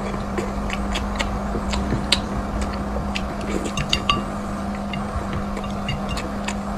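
Close-miked mouth sounds of someone chewing soft food: many small wet smacks and clicks scattered throughout, over a steady low hum.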